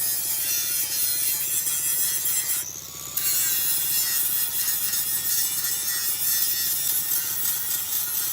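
Continuous rasping, scraping sound of abrasive hand work, such as sanding or filing, with a short break about three seconds in.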